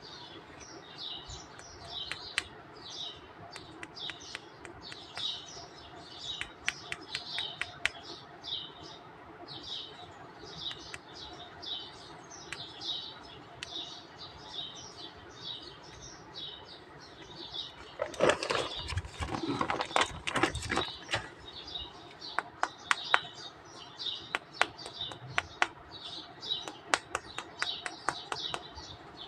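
Small birds chirping, short high calls repeating about once or twice a second, with scattered sharp clicks and a louder stretch of handling noise for a few seconds about two-thirds of the way in.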